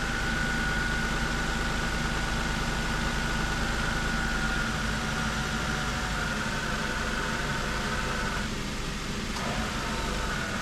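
Car engine idling with the AC compressor running; the compressor's steady whine cuts out near the end and comes back about a second later, the compressor cycling on and off on a system still low on refrigerant.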